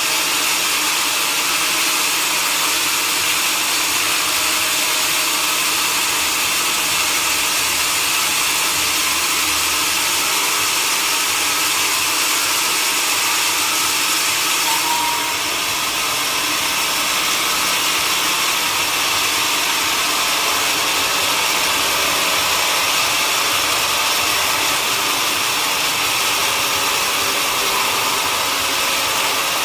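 Sawmill machinery running with a loud, steady mechanical noise, dipping slightly about halfway through.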